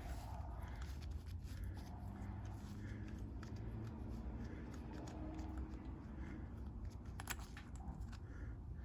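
Faint handling noises, small clicks and rustles of parts being moved, over a low steady hum; a couple of sharper clicks come about seven seconds in.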